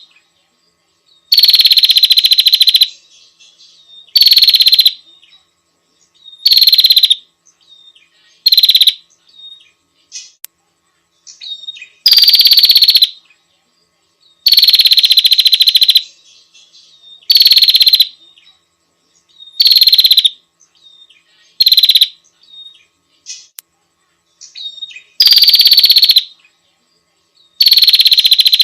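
Female prinia (prenjak) calling to a male: loud, rapid buzzy trills, each a second or so long and opening with a slight downward slur, repeated every two to three seconds, with short faint chips in between.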